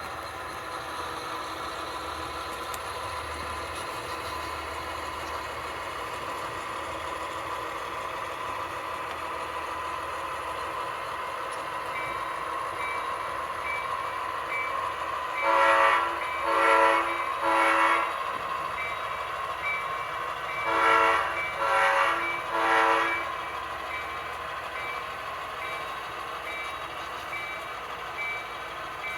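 Sound-equipped HO scale Athearn SW1500 switcher models: a steady diesel engine hum, joined partway through by a bell ringing about twice a second. Around the middle come two sets of three short horn blasts, the three-blast signal for backing up.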